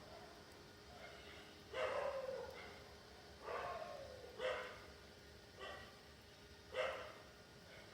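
A dog barking repeatedly, several short barks a second or two apart.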